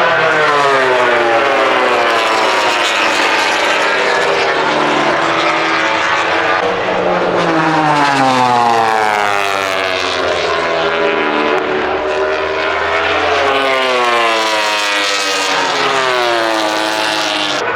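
Several MotoGP racing motorcycles with 1000 cc four-stroke engines passing at speed, their engine pitch repeatedly climbing and dropping as they rev through gear changes.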